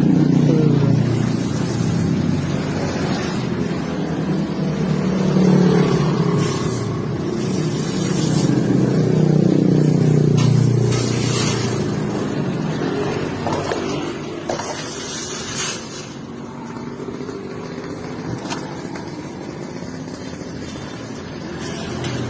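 A motor vehicle engine running with a low hum that rises and falls in pitch, growing quieter about two-thirds of the way in, with a few sharp clicks over it.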